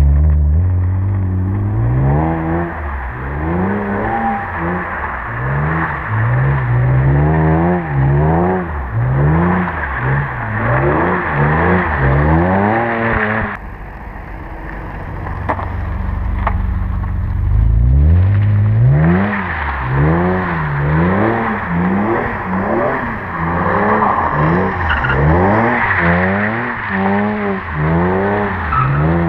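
BMW E46 M3 straight-six engine revving up and down over and over, about once a second, as the car is driven sideways on snow. The sound drops away suddenly about halfway through, then the engine climbs back and keeps rising and falling.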